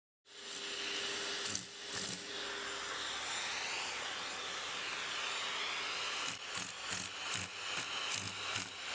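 Vacuum cleaner running with a steady hiss. From about six seconds in the sound breaks into quick repeated pulses, roughly three a second.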